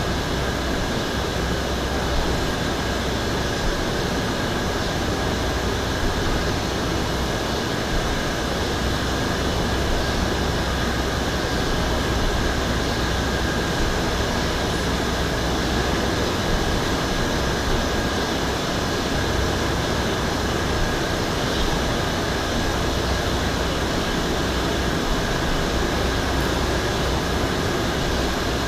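Steady droning background noise with a faint, high, steady whine and a few light ticks.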